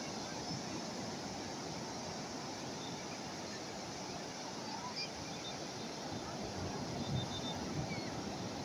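Calm sea waves washing on the shore, a steady even rush with slight swells near the end.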